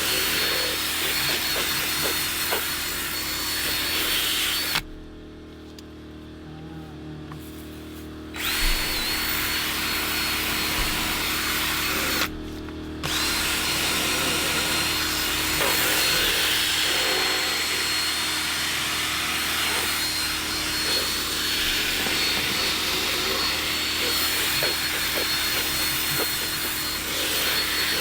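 Electric motor of a detailing power tool running with a steady high whine. It cuts out for a few seconds about five seconds in, then starts again, and stops briefly once more around the middle.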